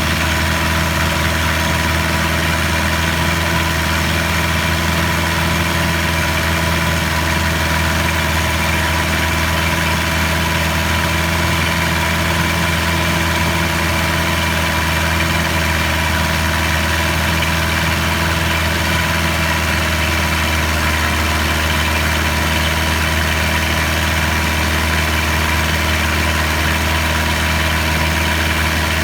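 A boat's engine running steadily, a constant low drone with steady tones that neither rises nor falls.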